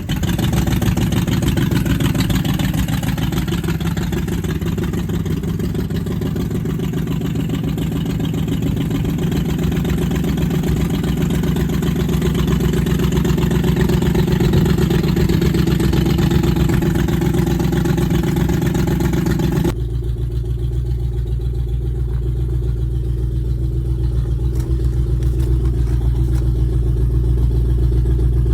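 Land Rover Discovery 1's freshly rebuilt petrol V8 running continuously, with a slightly uneven pitch. About twenty seconds in, the sound switches abruptly to a steadier, deeper running with the higher-pitched noise gone.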